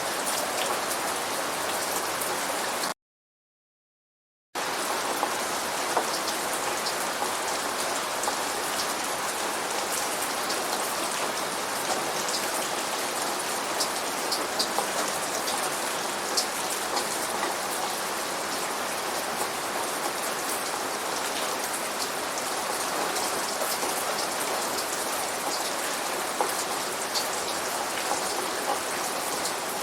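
Steady rain falling, an even hiss dotted with sharp ticks of individual drops. About three seconds in, the sound cuts out to complete silence for about a second and a half, then resumes.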